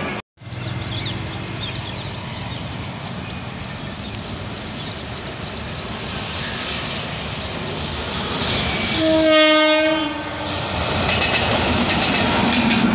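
Express train hauled by a WAP-7 electric locomotive running through the station at speed, with steady train noise building as it nears. One horn blast lasting just over a second sounds about nine seconds in. The coaches then pass close by, louder, with a clickety-clack of wheels on rail joints.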